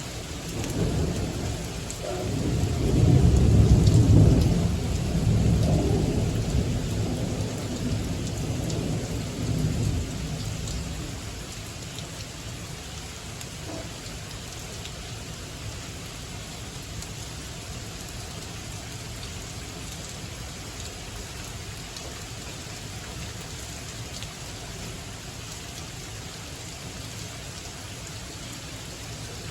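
Thunder rumbling for about ten seconds, loudest a few seconds in, then fading. Under it, steady rain keeps falling.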